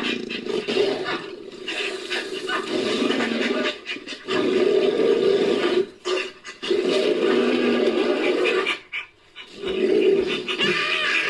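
Designed primal creature vocalisation, layered from ape and monkey calls: a run of rough, drawn-out growling roars, about four long calls with short breaks between them.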